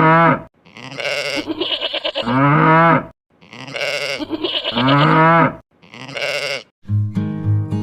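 A farm animal bleating: long wavering calls, the same call repeated about three times with short gaps. Acoustic guitar music starts near the end.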